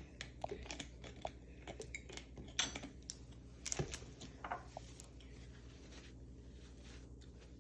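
Scattered small clicks and knocks of a drink bottle and cup being handled, thinning out after about five seconds.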